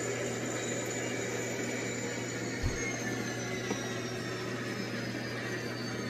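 Model diesel locomotive running with a steady engine hum and a faint high whine that slowly falls in pitch, with one short low thump about two and a half seconds in.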